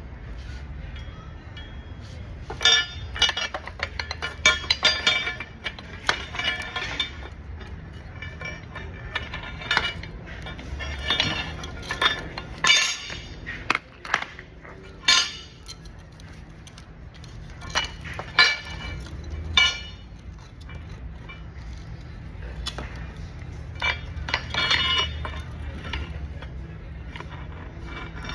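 Metal clinking and clattering of hand tools against steel suspension parts while a coil spring is worked free. It comes in several bursts of quick clinks over a steady low hum.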